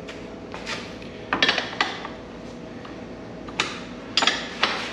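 Hand tools and loose bolts clinking against metal while the shock mount hardware is worked free. A few sharp metallic clanks come in two clusters, about a second and a half in and again near the end.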